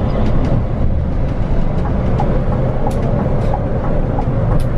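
Scania bus under way, heard from inside the cabin: a steady low rumble of engine and road noise, with a few faint clicks.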